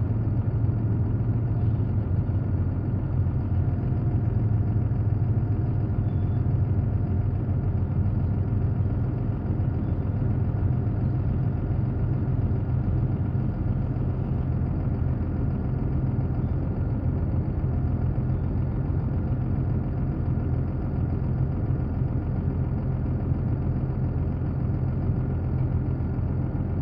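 Heavy engine running at a steady idle, a constant low hum that neither revs nor stops.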